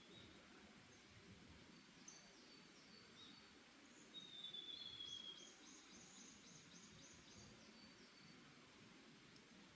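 Faint forest birdsong: several birds calling over a soft, steady background hiss. About four seconds in, one long, slightly falling whistle sounds, followed by a quick run of repeated high notes.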